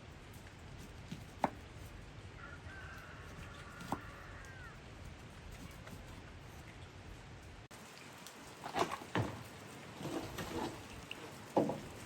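Steady rain falling, with a few sharp clicks and, in the second half, several light knocks.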